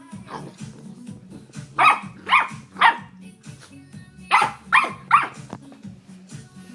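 Puppy barking at its own reflection in a mirror: six short, sharp barks in two quick groups of three, starting about two seconds in and again about four seconds in.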